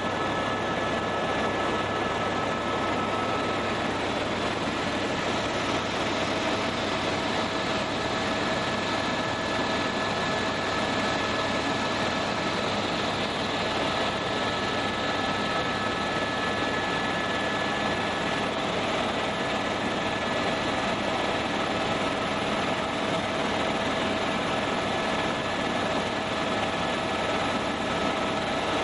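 Tour helicopter in flight, heard from inside the cabin: a steady rush of turbine and rotor noise with a few high steady whines running through it.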